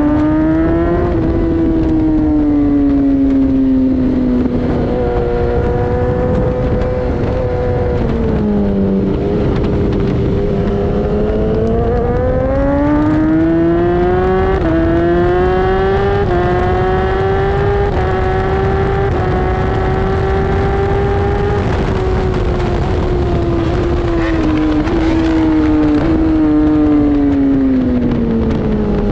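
Inline-four superbike engine at full throttle on a race track, under a dense rush of wind noise. The pitch rises through the revs and drops back twice under braking, about eight seconds in and again near the end. Several quick step-downs in pitch are upshifts.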